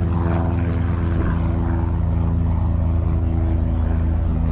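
An engine running steadily, a low droning hum with a constant pitch, heard from inside the vehicle's cabin.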